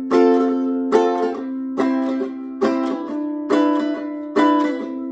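Strummed acoustic string instrument playing alone between sung lines: six chord strokes, about one a second, each left to ring.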